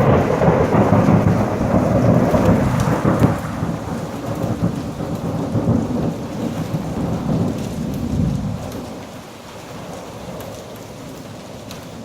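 Thunder from a supercell storm: a loud rumble that breaks out suddenly and fades after about eight seconds, over steady rain.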